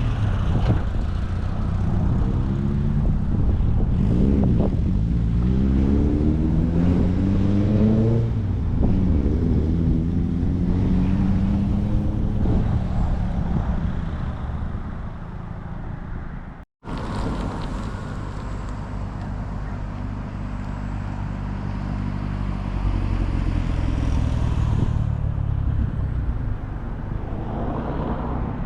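Car engines driving past: an engine's pitch rises several times in a row, as if accelerating up through the gears. After an abrupt cut about two-thirds of the way in, an engine runs at a steadier pitch.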